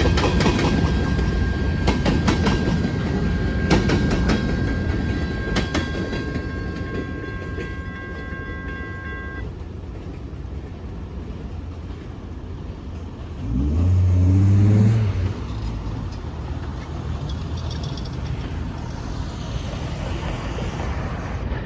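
Freight cars rolling through a grade crossing, wheels clicking over the rail joints, with a steady high ringing tone over them; the train noise stops abruptly about nine seconds in as the last car clears. About thirteen seconds in, a car accelerates across the tracks with a rising engine note, and another car starts pulling away at the very end.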